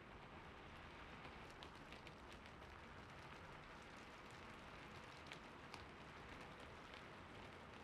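Faint, steady gentle rain, with a few soft scattered ticks.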